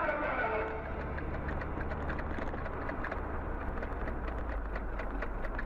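Steady engine and road noise inside a moving car, with many small irregular clicks and rattles.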